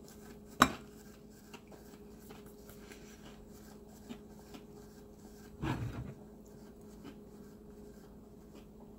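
Faint chewing and small handling sounds of a man eating a sauce-dipped chicken tender, over a low steady hum. A sharp click comes about half a second in, and a short, louder low sound about six seconds in.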